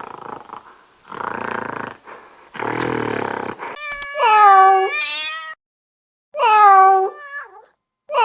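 A domestic cat meowing: two long, loud meows starting about four seconds in, with a third beginning at the end. Before them come quieter, lower, muffled sounds.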